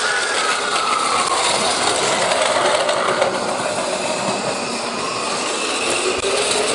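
Electric train running, its motor whine falling in pitch over the first few seconds as it slows. Near the end a whine rises again as it picks up speed.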